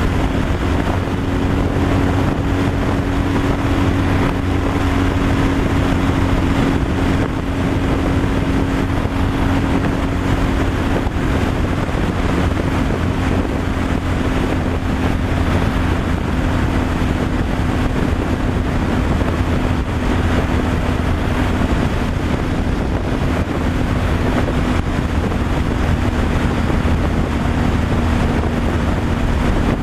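Big-trail adventure motorcycle's engine running at a steady cruise, heavily mixed with wind noise on the camera microphone. The engine note holds steady and eases slightly lower over the half-minute.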